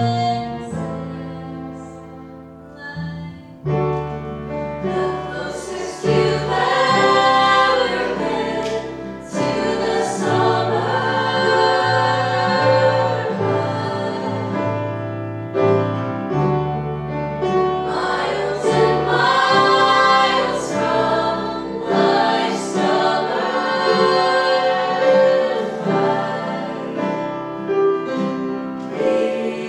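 Several voices singing together in harmony over an instrumental accompaniment with a steady bass line. It starts quietly and the full ensemble comes in about three and a half seconds in.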